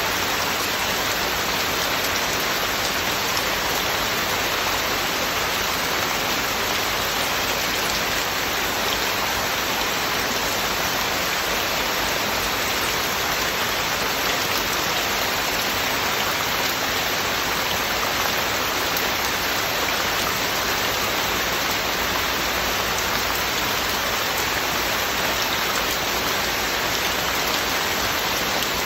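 Heavy rain falling steadily, an even, unbroken hiss of rain on surfaces with no thunder.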